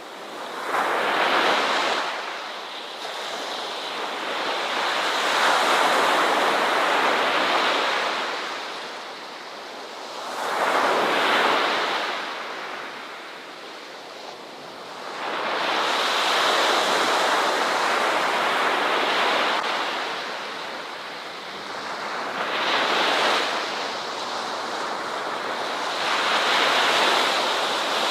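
Ocean waves breaking on a shore, each surge swelling and ebbing away every few seconds.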